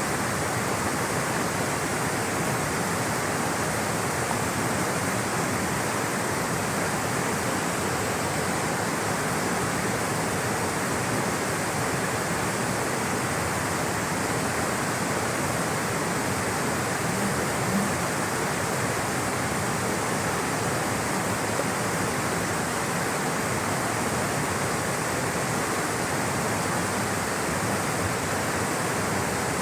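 Flowing water rushing steadily, a constant even roar with no change.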